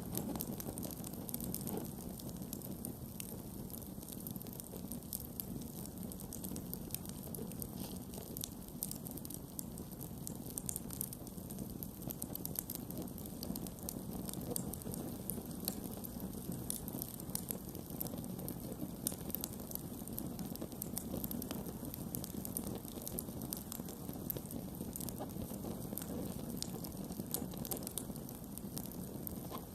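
Campfire burning, with frequent small crackles and pops scattered over a steady low rush of the flames.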